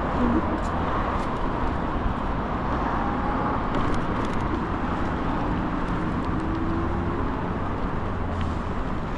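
Steady rushing wind and road noise while riding an Ikingi S6 Pro electric bike.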